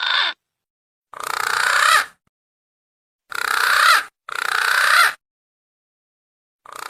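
Green pigeon (punai) lure calls: a series of separate calls of about a second each, with a wavering pitch that rises and falls within each call. There are three full calls in the middle, and a new one starts near the end.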